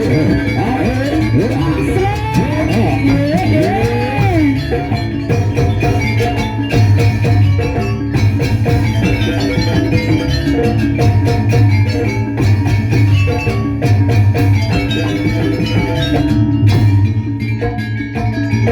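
Live gamelan-style dance music: ringing mallet-struck metal instruments playing quick notes over a steady drum beat, with a bending, sliding melodic line over the top for about the first four seconds.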